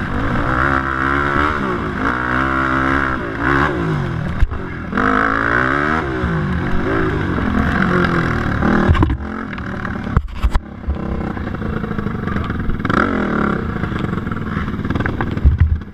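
Yamaha YFZ450 quad's single-cylinder four-stroke engine revving hard and easing off over and over while racing around a motocross track, its pitch climbing and dropping about once a second. About nine seconds in the revs drop with a few sharp knocks, then the engine runs more evenly.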